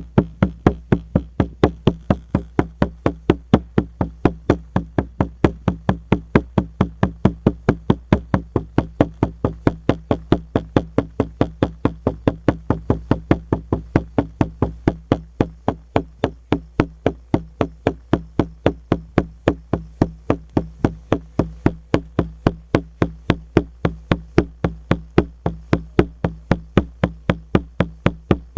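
Shamanic frame drum (buben) beaten in a steady, even rhythm of about four strikes a second, each beat carrying a deep ringing boom.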